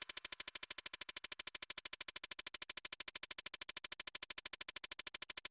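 Rapid, even train of electronic clicks, about fourteen a second, at a steady level, like a synthesized buzz or stutter effect; it cuts off abruptly near the end.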